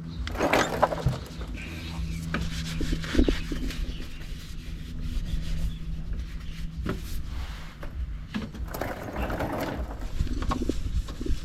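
A spin-on oil filter being threaded on by hand: rubbing and scraping with scattered clicks and knocks, over a low steady hum that stops about two-thirds of the way through.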